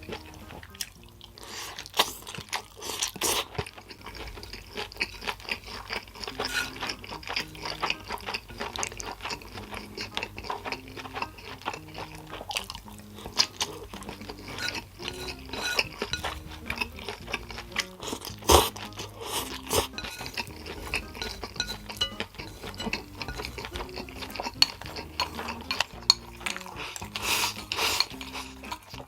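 Eating sounds from a plate of yakisoba: chopsticks clicking against the dish, clinks and chewing, with a sharper knock about two thirds of the way in. Soft background music with a repeating bass line plays underneath.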